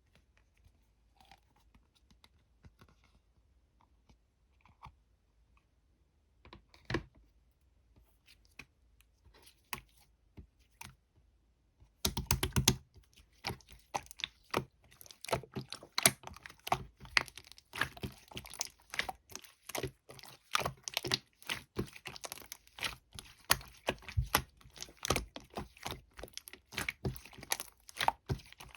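Two-layer slime being handled and squished by hand: a few faint, scattered clicks at first, then from about twelve seconds in a dense, continuous run of sharp popping and crackling clicks as the slime is pressed and stretched.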